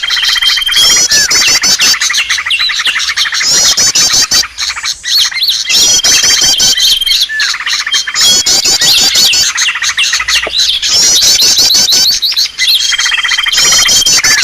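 A dense chorus of small birds chirping, trilling and whistling all at once: a bird-lure recording made to draw in wild birds. The mix loops, and the same stretch with a held whistle comes back about every six seconds.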